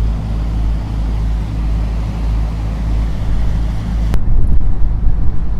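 A boat's engine running steadily with a low drone. About four seconds in, the sound changes abruptly to a rougher, gusty rumble, like wind on the microphone.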